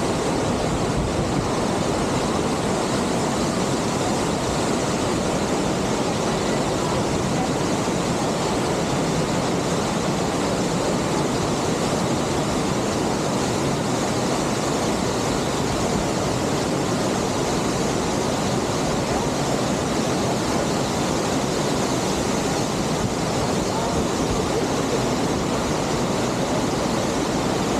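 Steady, unbroken rush of a waterfall's falling water close by.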